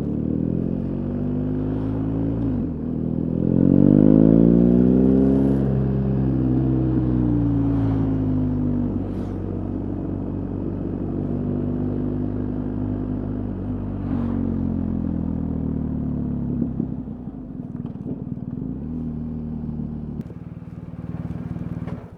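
BMW R 1250 GS Adventure's 1254 cc boxer-twin engine under way. It revs up after a gear change a little under three seconds in, at its loudest about four seconds in, then eases back to steady running. There is another shift near the end, and the sound drops away sharply at the close.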